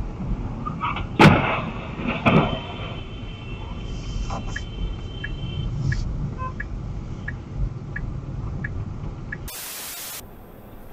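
Car crash: two loud impacts about a second apart, the first the louder, with a ringing tone after them over rumbling vehicle noise. Then faint regular clicks, about one and a half a second, and a short burst of hiss near the end.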